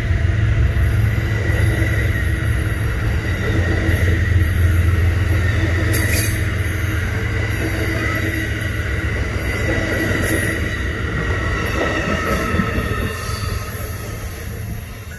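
Amtrak passenger train rolling past with a steady low rumble and a thin, high-pitched wheel squeal that grows louder near the end, with a few sharp clicks over the rails.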